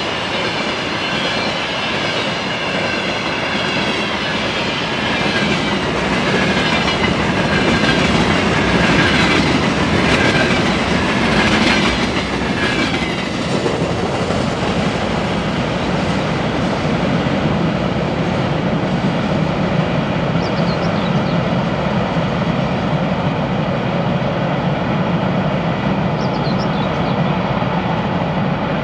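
Freight wagons rolling past on the track, with a wavering high wheel squeal for about the first half that then gives way to a steady rumble and clatter of the passing cars.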